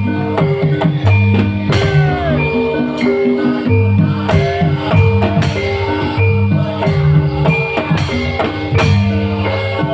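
Live band music on stage: a repeating bass line under regular drum hits, with a bright melodic line over the top.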